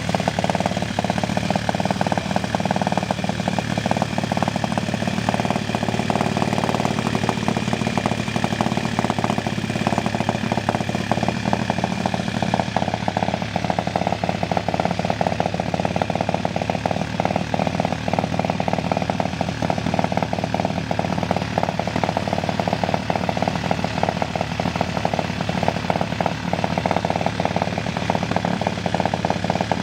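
Junior dragster's single-cylinder engine with a Borla muffler running steadily with a chainsaw-like rattle, holding an even pitch without revving.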